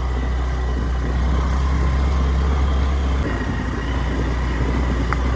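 Motor scooter running while ridden over a rough road, a steady low drone that eases slightly about three seconds in.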